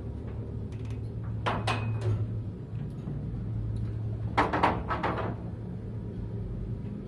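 Elevator running in its shaft with a steady low hum from the drive, broken twice by clusters of knocks and clatter, the second cluster the loudest. The knocking is the sign of worn guide-shoe liners.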